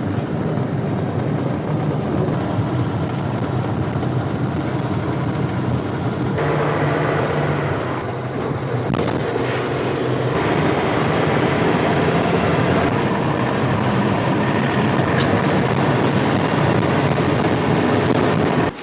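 Steady engine and road noise of a moving bus or similar road vehicle, with the tone shifting abruptly twice, about six and ten seconds in.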